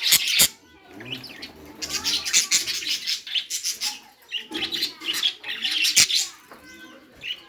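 Birds chirping and flapping their wings in irregular bursts, with a few sharp clicks.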